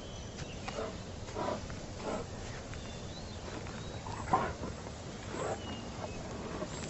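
A crowded herd of walruses hauled out on a beach, grunting and bellowing in short, scattered calls over a steady low rumble of the herd. The loudest call comes about four seconds in.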